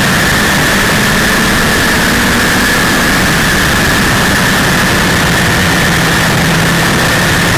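1932 Ford Super Modified race car's 300 cubic inch straight-six running hard at a steady pitch, heard from on board under a loud, even rush of noise.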